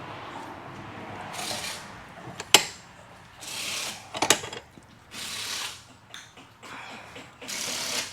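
Hand work on a hydraulic cylinder's gland to free a frozen keeper ring: two sharp metal-on-metal strikes, about 2.5 and 4.3 seconds in, the first the loudest, and four short rasping, hissing strokes at a slow, even pace.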